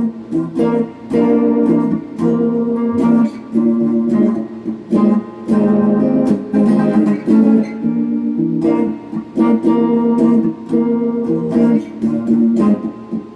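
Electric guitar, a Donner '72 Thin semi-hollow body, playing chords through a phaser and a Klon-style overdrive into a Peavey Backstage Plus amp. The chords are struck in short rhythmic phrases that ring between strokes, with brief gaps.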